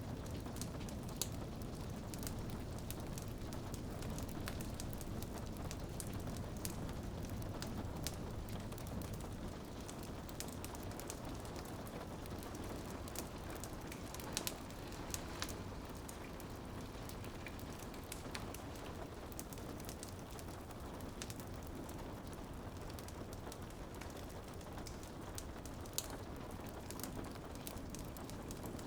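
Rain pattering steadily on a window mixed with a crackling wood fire, its sharp pops and snaps scattered irregularly, a few louder than the rest.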